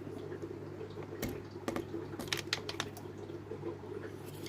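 Tube cutter snipping old, rigid aquarium airline tubing: a handful of sharp clicks and snaps between about one and three seconds in. A steady low hum runs underneath.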